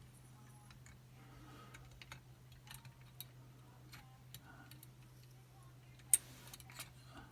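Faint, scattered metallic clicks and ticks of a picking wire and tension tool working inside a Chubb Detector 5-lever lever lock, with one sharper click about six seconds in. A steady low hum runs underneath.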